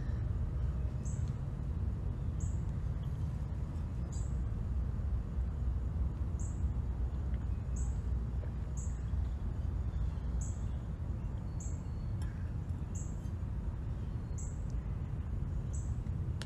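Outdoor ambience: a bird giving a short, high chirp about once a second, over a steady low rumble.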